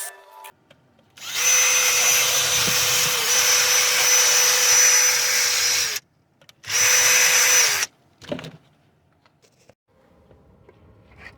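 A handheld drill-type power tool runs with a steady whine for about five seconds, stops, then runs again for about a second and winds down. A brief knock follows.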